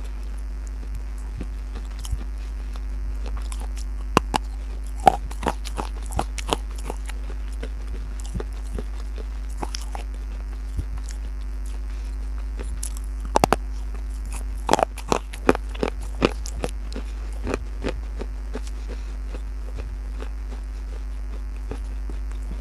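Close-miked crunching as a person bites and chews pieces of baked clay pot: scattered sharp crunches, bunched about four to seven seconds in and again around thirteen to sixteen seconds, over a steady low hum.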